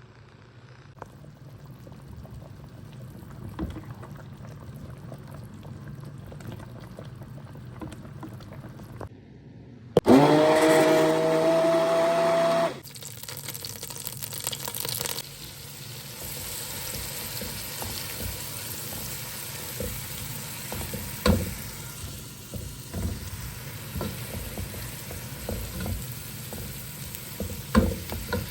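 Kitchen cooking sounds: a steady sizzle with scattered clicks and knocks of utensils. About ten seconds in, a loud whine rises in pitch and holds for nearly three seconds before cutting off.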